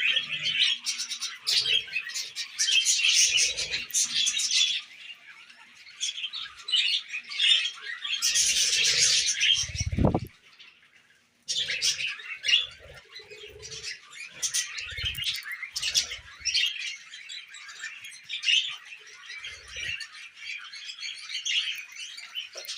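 Pet budgies chattering and warbling in a dense stream of fast, high chirps. The chatter stops for about a second after a low bump near the ten-second mark, then resumes.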